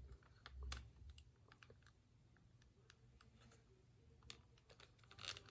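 Near silence, with a few faint, scattered clicks and taps of small plastic toy parts being handled.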